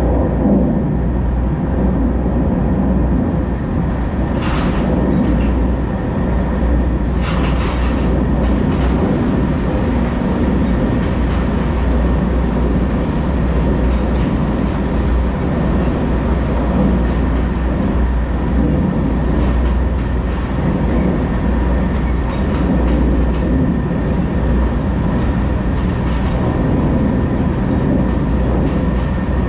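Semi truck's diesel engine idling steadily, with a few brief clicks and knocks about four to nine seconds in.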